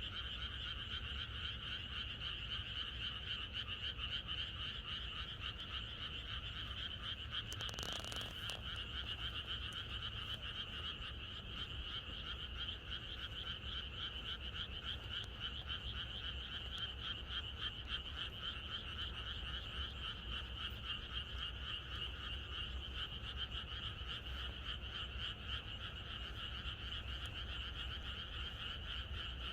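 A chorus of many frogs calling at once, a dense and continuous pulsing din that does not let up. There is one brief, short noise about eight seconds in.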